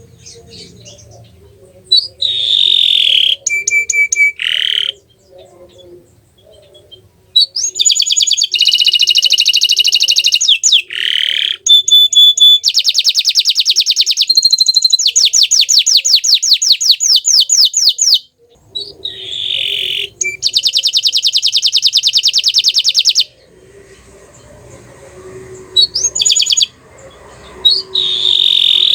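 Bottle-green canary singing: phrases of fast, high-pitched trills and rolls, with a long unbroken run of song in the middle and short pauses between phrases.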